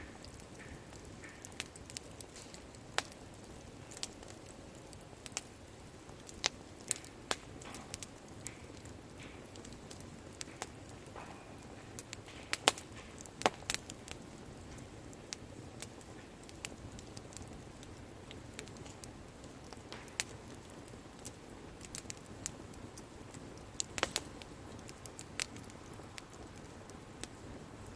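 Wood campfire burning with irregular sharp crackles and pops over a soft hiss, a few louder snaps scattered through.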